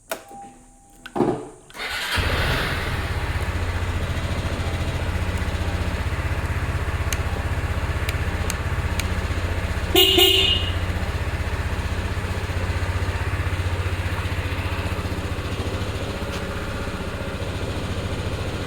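Yamaha Majesty 250 scooter's single-cylinder four-stroke engine starting about two seconds in, then idling steadily. About halfway through, the scooter's horn sounds once, briefly.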